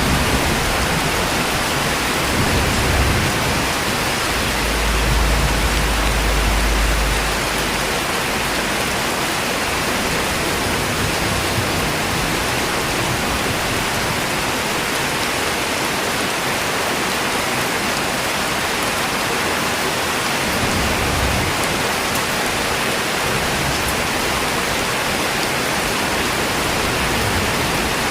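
Steady heavy rain, an even hiss of falling drops, with a deep low rumble for a couple of seconds about five seconds in.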